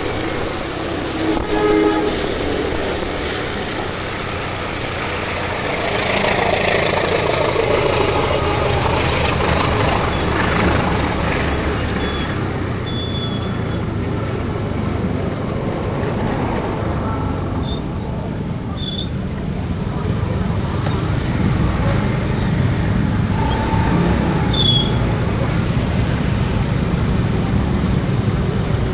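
Steady road traffic and engine noise, with a short horn toot about a second in.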